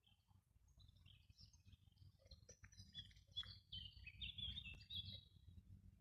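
A songbird singing a long, varied song of high chirps and trills, starting about a second in and ending near the end, over a faint low rumble.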